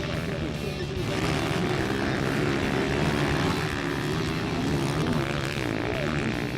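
Several 160cc-class single-cylinder motorcycles racing on a dirt track, their engines revving up and down and overlapping.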